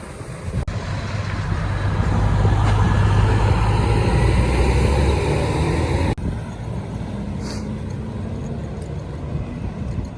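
A car driving past close by, its engine and tyre noise building over a few seconds and then cut off abruptly about six seconds in, leaving a quieter steady rumble.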